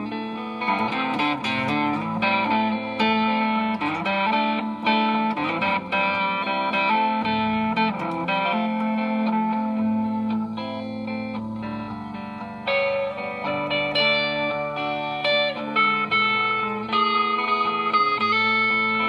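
Gretsch G3161 hollow-body electric guitar played through a Fender Excelsior tube amp: a phrase of picked notes and chords, with some notes left ringing.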